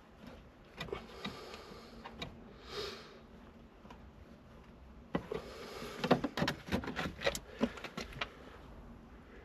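Scattered clicks and knocks of a hand tool and metal parts being worked at the accelerator pedal's clip and bracket, coming thick and fast in the second half. A short soft rush of noise about three seconds in.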